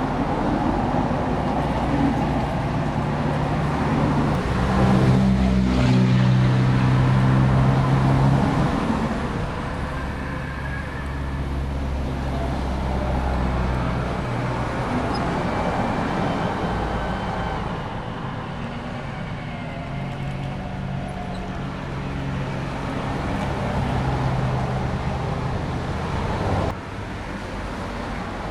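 Radio-controlled Bruder CAT D11 bulldozer model running, a steady low engine-like drone that gets louder about five seconds in, eases off around nine seconds, swells again later and drops suddenly near the end.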